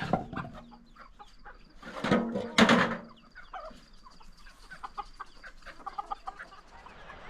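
Chickens clucking, with two loud calls about two seconds in, followed by a run of short, quieter clucks.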